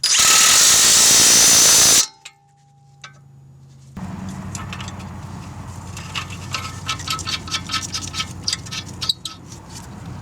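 Workshop tool sounds during a CV axle job. A loud steady hiss lasts about two seconds and cuts off sharply. From about four seconds in, a small motor runs with rapid irregular clicking.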